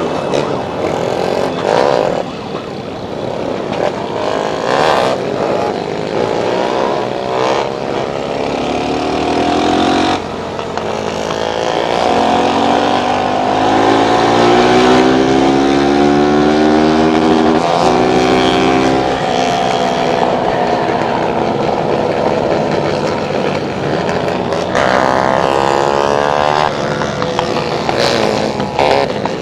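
Motorcycle engines running on the move, their pitch rising and falling as they speed up and slow down, with more than one engine heard at times.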